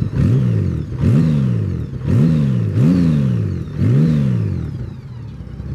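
2014 Honda Valkyrie's 1.8-litre flat-six on its stock exhaust, blipped five times in quick succession, about one a second. Each rev jumps up and falls straight back, and the engine settles to a steady idle near the end.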